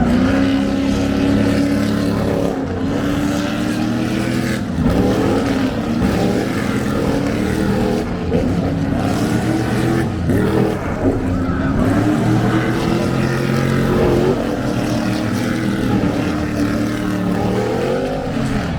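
Race car engines at speed, cars passing one after another with the pitch climbing through the gears and dropping back at each shift.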